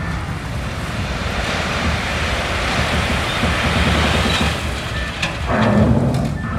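Komatsu D21P crawler bulldozer working: a steady diesel engine rumble under the fast clatter of steel tracks, with a rushing noise that swells in the middle and a couple of sharp metal clanks about five seconds in.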